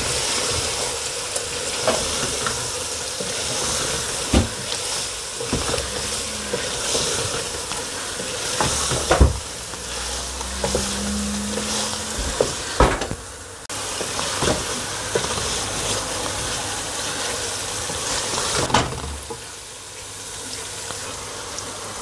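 Chicken and potato curry sizzling as it fries in an aluminium pot, stirred with a wooden spatula that knocks sharply against the pot several times.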